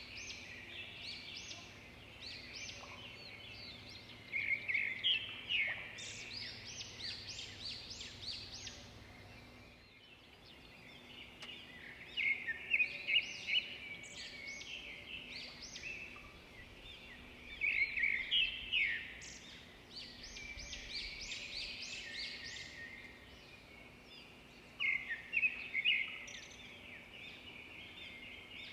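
Songbirds chirping and singing in repeated bursts of quick, high notes and trills over faint steady outdoor background noise.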